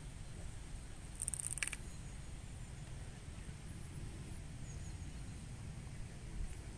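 Small birds chirping outdoors over a steady low wind rumble on the microphone, with a short bright trill about a second and a half in and a few faint high chirps later.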